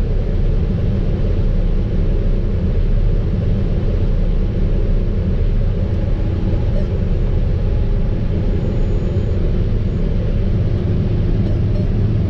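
Fendt IDEAL 7 combine harvester running steadily under load while harvesting wheat, a constant low rumble heard from inside the cab.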